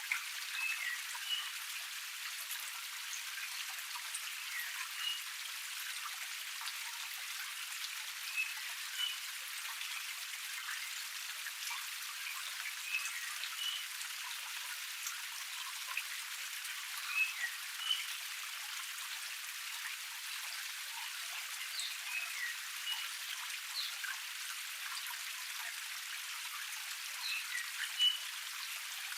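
Water of a small forest cascade splashing and trickling in a steady hiss, with short high plinks scattered through it every second or two.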